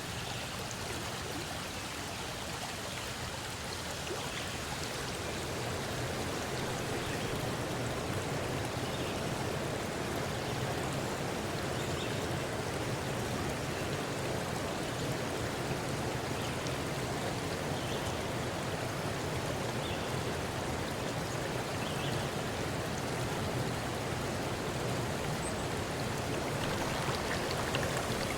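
Steady rushing of running water, like a flowing stream, growing a little louder about five seconds in.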